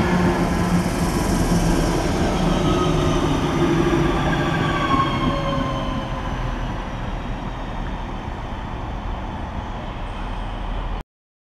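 London Midland electric multiple unit running past along the platform: a rumble of wheels on rail with a whine that slowly falls in pitch. The sound fades from about halfway and cuts off abruptly near the end.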